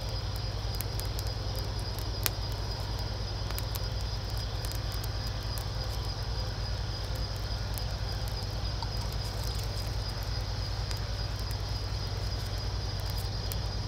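Campfire crackling with scattered small pops, one louder snap about two seconds in, over a steady high insect drone and a low constant rumble.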